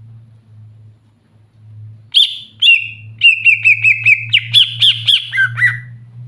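Green leafbird (cucak hijau) singing. About two seconds in, a few sharp chirps break out, then a fast run of repeated notes at about five a second, ending in several loud downward-sliding calls.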